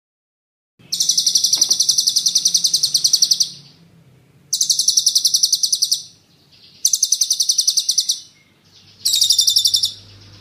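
A songbird's rapid, high-pitched rolling trill of fast repeated notes, sung in four bursts: a long one of about two and a half seconds, then three shorter ones.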